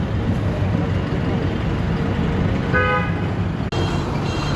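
Steady rumble of road traffic with a vehicle horn tooting briefly about three seconds in, and a fainter horn near the end; the audio drops out for an instant just before that.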